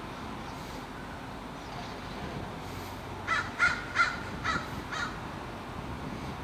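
A bird calling five times in quick succession, starting about three seconds in, over a steady background hum.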